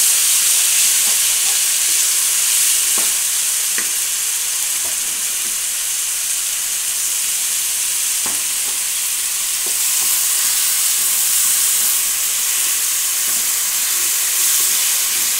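Moong dal sizzling in ghee in a non-stick wok as it is fried down, stirred and scraped with a wooden spoon, with a few light knocks of the spoon against the pan.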